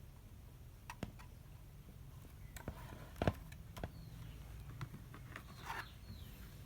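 Handling noises from unboxing a cordless drill and its packaging: scattered light clicks and taps with brief rustling, the loudest a knock about three seconds in, over a low steady hum.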